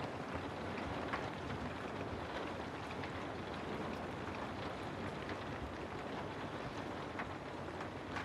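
Steady rain ambience, an even hiss with occasional faint clicks.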